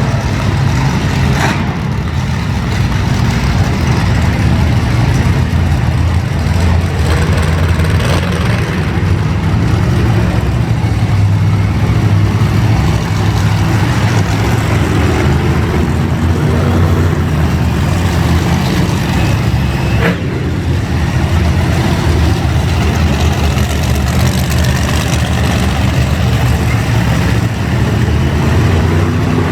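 Monster truck engine running loud and steady, with some revving and a couple of sharp knocks.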